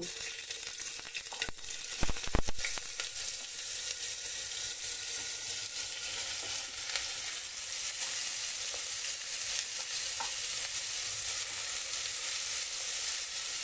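Cubed bottle gourd sizzling as it fries in hot ghee in an aluminium pressure cooker, a steady hiss while a spatula stirs it. A few sharp knocks come about two seconds in as the pieces are tipped in and the pot is handled.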